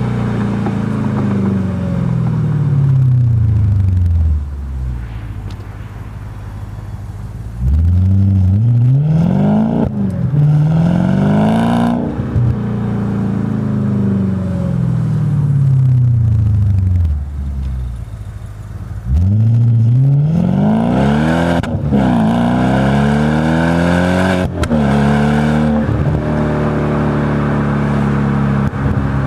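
Audi B7 S4's 4.2-litre V8 through a Stasis exhaust, pulling hard twice with the pitch climbing and breaking at each gear change, winding down in between, then settling to a steady drone.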